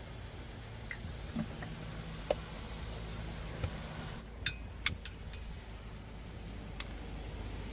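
A handful of light, sharp clicks and clinks, like kitchenware being handled, over a steady low hum of road traffic.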